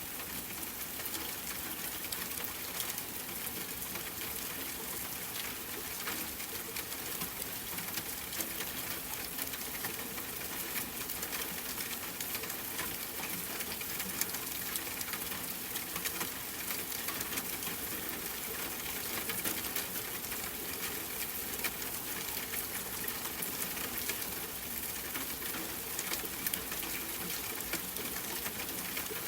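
Steady rain falling, an even patter with many small drop ticks.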